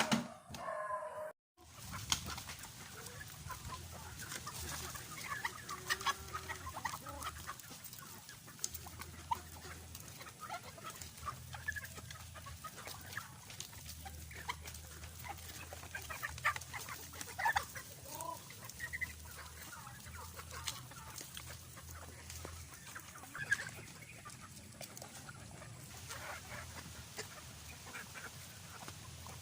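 Free-range chickens clucking, many short scattered calls through the whole stretch, mixed with sharp little clicks; the sound drops out completely for a moment about a second in.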